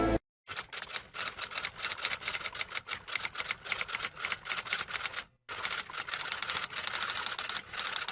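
Typing sound effect: fast, irregular clicking of keys, in two runs split by a short pause about five seconds in. A snatch of music cuts off right at the start.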